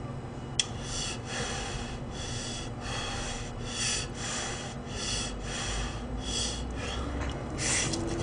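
A man chewing a mouthful of fried rice close to the microphone, breathing noisily through his nose in soft pulses about twice a second, with one sharp click of a spoon just after the start.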